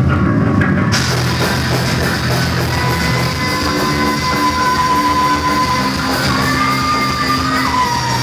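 Live hard rock band playing loudly, with distorted electric guitars and a drum kit; from about a second in, high guitar lines hold and bend in pitch over sustained low notes.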